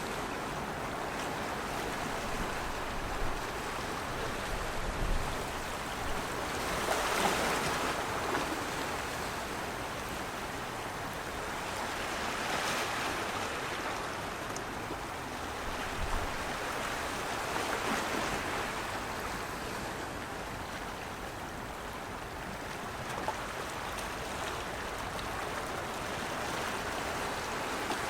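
Steady rush of water, swelling every five or six seconds.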